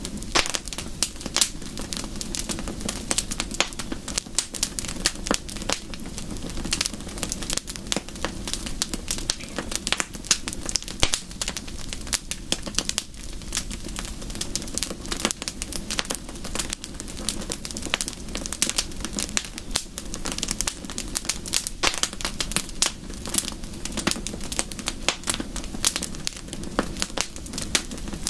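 Wood fire crackling, with quick irregular pops and snaps over a steady low rumble.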